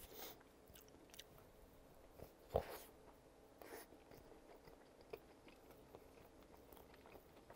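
Faint, close-miked biting and chewing of a hot dog in a soft bun topped with cheese and crispy fried onions. One sharper, louder bite comes about two and a half seconds in, followed by soft, quiet chewing with a few small smacks.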